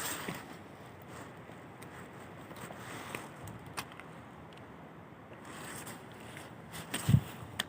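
Footsteps of a person walking on a forest path, with scattered crackles and scrapes underfoot and a louder dull thump near the end.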